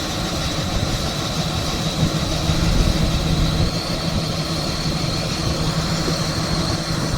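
Large vessel's engine running steadily: a continuous low rumbling drone with a thin high whine over it.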